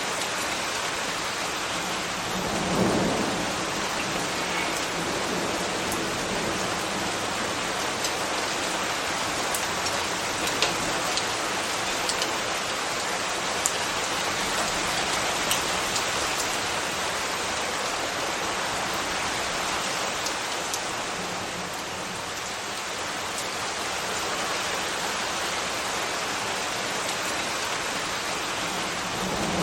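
Steady rain falling, with scattered sharp drop clicks. A brief low rumble swells about three seconds in, and another near the end.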